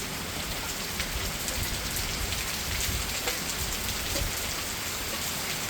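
Steady rain falling during a thunderstorm, with many close raindrop impacts ticking through it.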